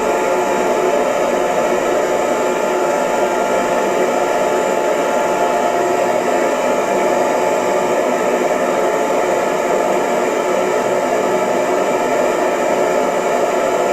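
Hair dryer running steadily: an even, unbroken blowing noise with a faint motor hum in it.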